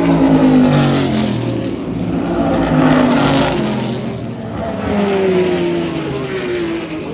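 Historic IMSA GT-era race cars passing at speed one after another, each engine's note falling in pitch as it goes by; about three passes, the first the loudest.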